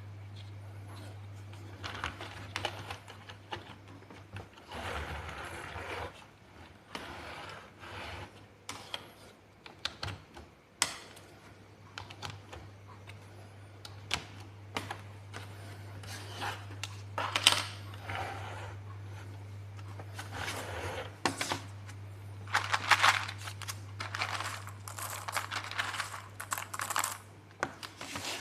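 Plastic building blocks clicking and rattling as pieces are handled and pressed together, in irregular bursts with a few sharper clicks, over a steady low hum.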